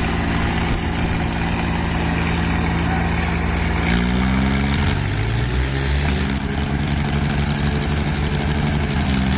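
Swaraj tractor diesel engines running hard under load in a tractor tug of war. About four seconds in, an engine's pitch rises as it revs up, then shifts again over the next second or two.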